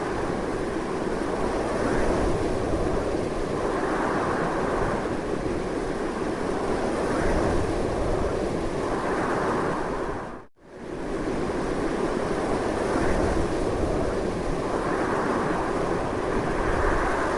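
Strong wind blowing steadily, swelling and easing in slow gusts. About ten seconds in, it fades quickly to near silence and straight back up again.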